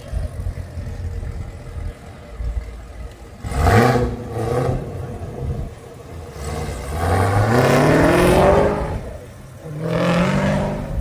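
Car engine revved three times over a low idle: a short blip a few seconds in, a longer rising rev in the middle that is the loudest, and another short rev near the end.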